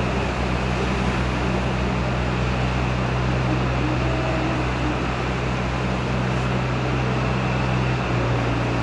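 A car engine running steadily: an even low hum with a constant hiss over it. The hum's pitch drops slightly near the end.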